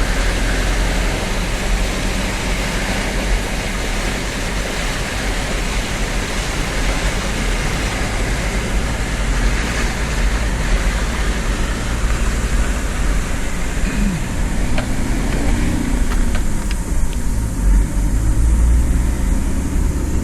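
Four-wheel-drive vehicle under way, its engine running under a steady rushing noise, with the engine note rising briefly about two-thirds of the way through.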